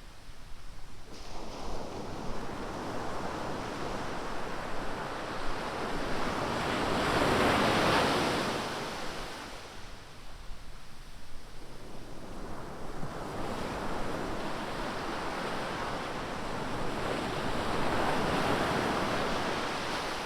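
Ocean surf: waves breaking and washing up the beach, two large breakers swelling and fading about ten seconds apart, with some wind on the microphone.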